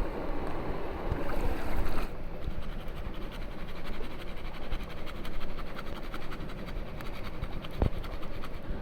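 Campfire crackling with many fine ticks over a steady rushing noise, louder for the first two seconds, with one sharper pop near the end.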